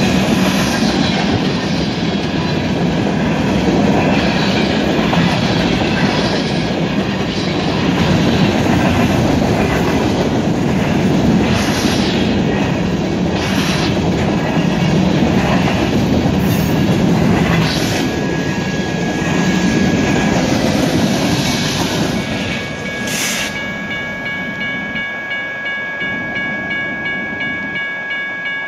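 Freight train of covered hopper cars rolling past at speed over a grade crossing: a steady rumble of wheels and cars with scattered clatter from the wheels over the rails. A thin high squeal comes in about two-thirds of the way through, and several more high steady tones join it over the last few seconds.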